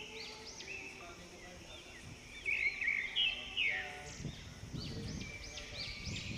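Small birds chirping over and over in quick, arched notes. From about four seconds in there is a low rustling of leaves being handled.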